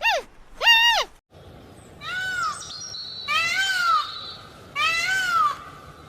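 Cat meowing three times, each meow a drawn-out call that rises and falls, over a faint outdoor hiss. Before it, two short calls from another animal fall sharply in pitch, and the recording cuts over.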